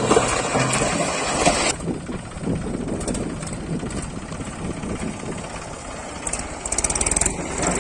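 Diesel engine of heavy machinery running, as a continuous rumble. The sound changes abruptly about two seconds in to a quieter, lower rumble, with a short spell of rapid ticking near the end.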